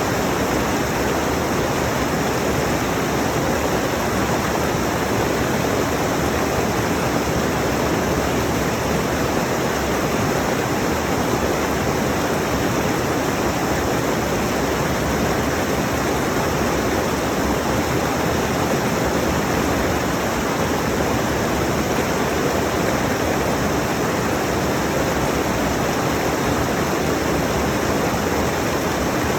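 Rushing mountain stream: a steady, even rush of water with no breaks or changes.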